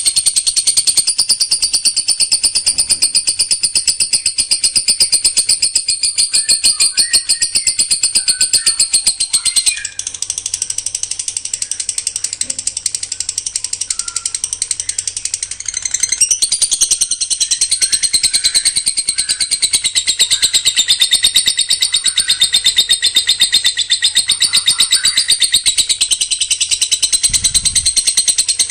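A songbird singing a continuous, very rapid, dense high trill of rapid-fire song bursts (tembakan rapat), the kind of song that is played to train other songbirds. The song falters briefly about a third of the way in and shifts pattern a little past halfway.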